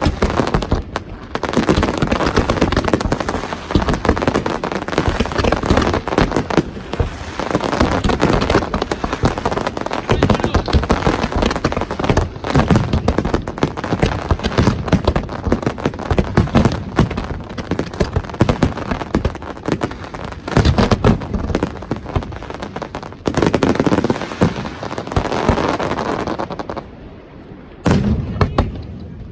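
Fireworks display: a dense, rapid barrage of bangs and crackling, with a brief lull near the end before the bangs start again.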